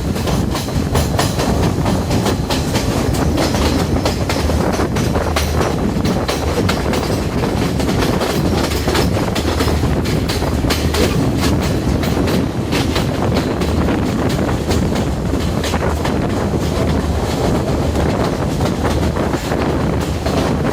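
Diesel intercity train set running at speed: a steady rumble with wheels clicking over the rail joints.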